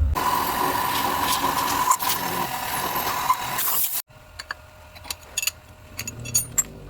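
An electric power tool runs steadily with a whine for about four seconds, then cuts off abruptly, followed by light metallic clicks and taps.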